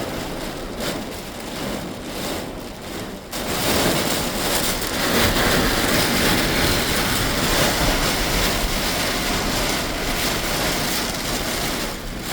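Heavy rain beating on a car's roof and windshield, heard from inside the car as a dense, steady hiss that suddenly gets louder about three seconds in.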